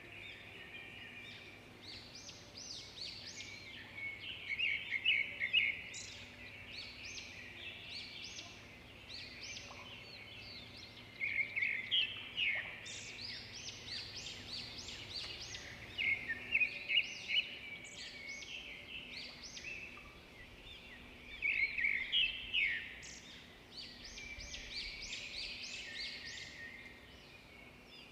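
Small birds singing and chirping, with quick runs of high notes that swell into louder bursts every few seconds.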